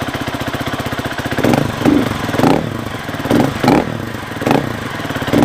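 Husqvarna FE 350s dirt bike's single-cylinder four-stroke engine, breathing through its stock muffler with the stock end cap. It idles with a fast steady beat, then is revved in a series of quick throttle blips, about seven, from about a second and a half in. The engine is cold, so it is not revving well.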